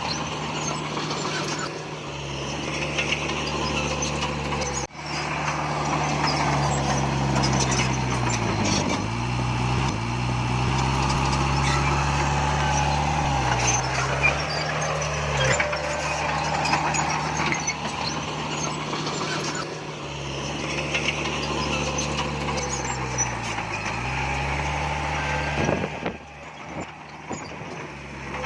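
Heavy diesel engine of earthmoving machinery running hard, its pitch dipping and recovering three times.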